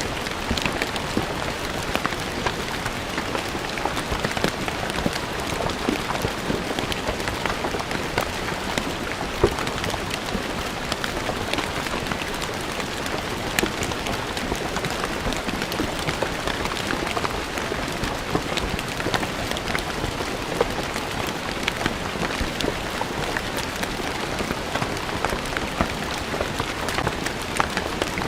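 Steady rain falling on stone paving, a dense patter of many separate drops splashing on the hard surface.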